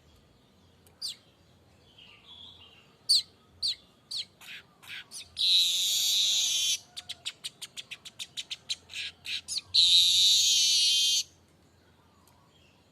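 Streaked weaver singing: a few separate chirps, then a harsh buzzing passage of over a second, a fast run of short clicking notes at about seven a second, and a second buzzing passage of about a second and a half.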